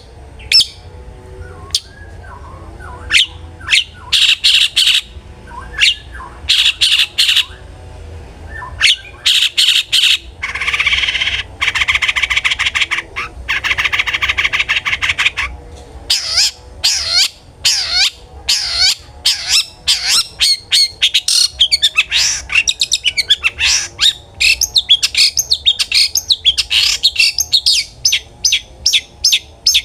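Long-tailed shrike (cendet) singing: sharp, spaced call notes at first, then a harsh buzzing rattle lasting about five seconds in the middle, followed by rapid chattering notes.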